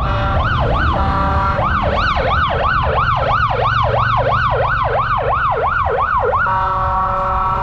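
A siren in rapid yelp mode, its pitch sweeping up and down about three to four times a second, with a short break about a second in. Near the end it switches to a steady held tone, over the low rumble of street traffic.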